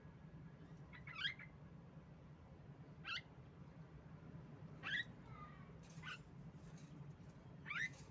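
Female Javan myna (jalak kebo) giving short, sharp upward-sweeping calls, about five of them spaced a second or two apart, over a steady low hum.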